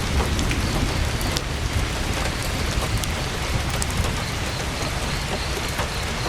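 Heavy rain pattering steadily on a tent's canvas, with a deep low rumble underneath and scattered sharp clicks.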